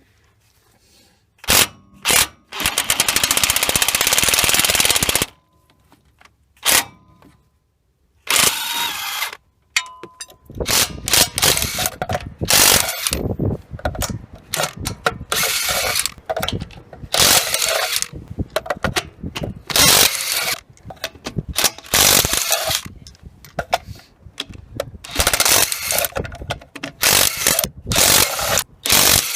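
DeWalt DCF894H 20V XR cordless impact wrench hammering in repeated bursts: a long run of about three seconds near the start, then many short bursts with brief pauses through the second half.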